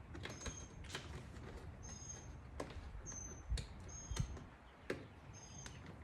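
Scattered light clicks and a couple of dull knocks from hands working wire connections, with a short, high chirp repeating about once a second.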